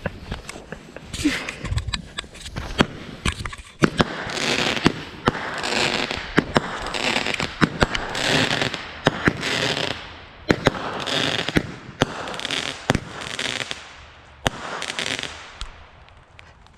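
A consumer fireworks cake, the "Baby Boomer", firing a rapid series of shots. Sharp bangs come throughout, and from about four seconds in they are mixed with bursts of crackling that come roughly once a second and die away near the end.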